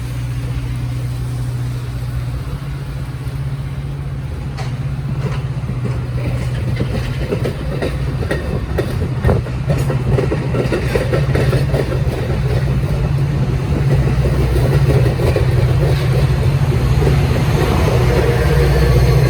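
Diesel-hauled train running on the tracks: a steady low engine drone with sharp clicks of wheels over rail joints, growing louder as it comes closer.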